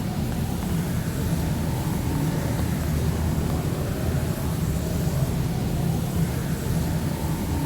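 Heavy rain on a city street with a steady low rumble of motor traffic underneath.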